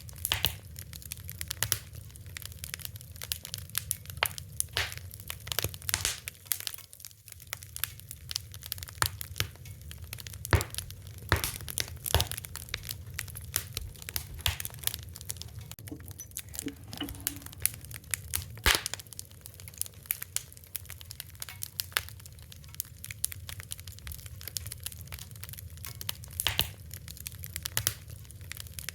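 A fire crackling, with irregular sharp pops and snaps, a few louder than the rest, over a steady low rumble.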